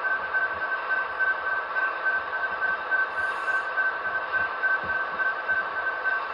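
Sound-equipped model locomotive's onboard electronic sound playing through its small speaker while it backs slowly: a steady high ringing tone that pulses rapidly, swelling and dipping a few times a second.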